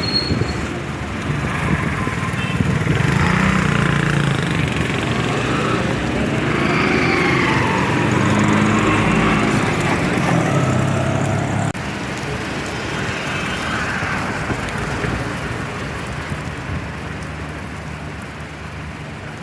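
Road traffic: motor vehicle engines running and passing over a steady wash of noise. The sound changes abruptly about twelve seconds in.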